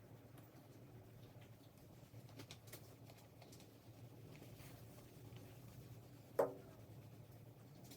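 Faint eating noises: soft clicks and taps of chewing and handling fried chicken, with one brief louder sound about six and a half seconds in.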